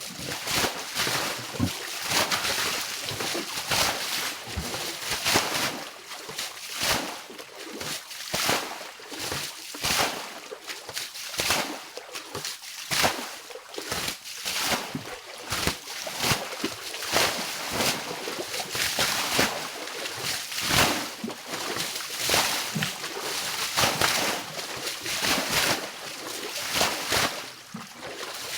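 Water splashing and sloshing in a quick, irregular run of strokes as it is being bailed out.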